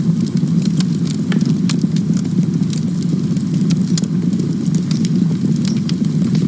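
Campfire burning with a steady low roar of flames and frequent sharp crackles and pops from the wood.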